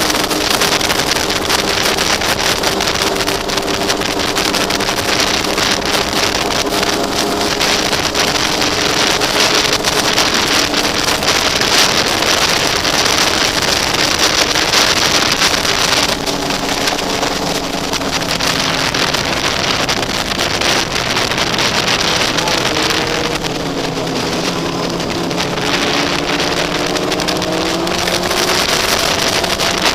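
Sportbike engine running at highway speed under heavy wind rush on the microphone. Its pitch holds steady, then dips and climbs back up a few times in the second half.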